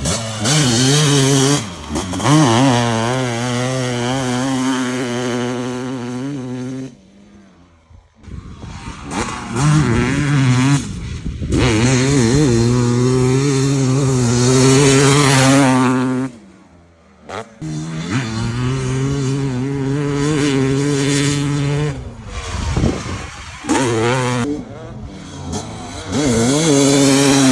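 Two-stroke motocross bike engine revving hard on track, the revs rising and falling. The throttle is shut off briefly about seven seconds in and again around sixteen seconds, then opens back up.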